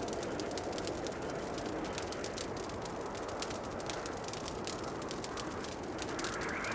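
Wood fire crackling in a fireplace: many sharp snaps and pops over a steady, low, rushing burn.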